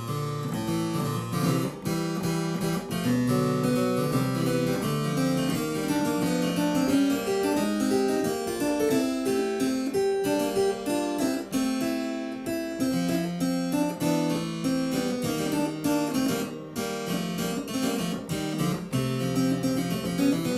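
Harpsichord being played: a continuous stream of plucked notes, several sounding together, without pause.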